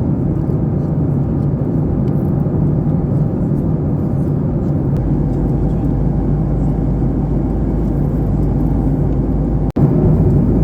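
Steady cabin noise inside a Boeing 737 MAX 8 in flight: a loud, even rumble of engine and airflow. The low rumble deepens about halfway through, and the sound cuts out for an instant near the end.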